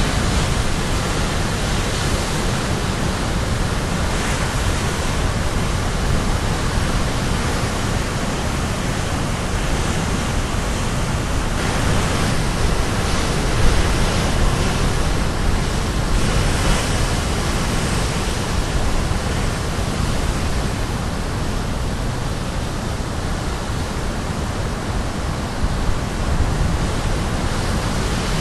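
Caribbean Sea waves crashing against the shore: a continuous loud rush of surf, swelling briefly as bigger waves break around the middle and near the end.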